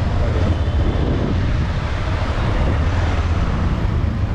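Steady wind rumble on the microphone over a motorcycle's running noise while riding, with no clear pitch of its own.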